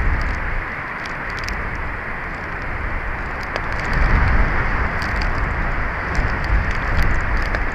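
Strong wind buffeting an outdoor camera microphone: a rushing, rumbling noise that swells in gusts, with scattered faint ticks and crackles.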